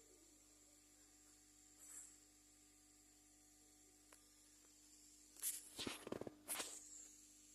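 Near silence with a faint steady electrical hum, broken about five and a half seconds in by a short cluster of small clicks and rustles.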